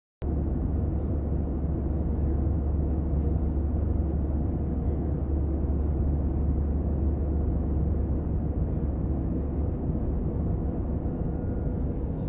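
Steady airliner cabin noise in flight: an even, deep rumble with a hiss, with no change in pitch.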